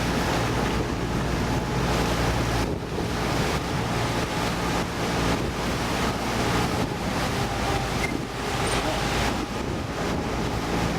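Motorboat engine running steadily, with wind buffeting the microphone and water rushing past the hull.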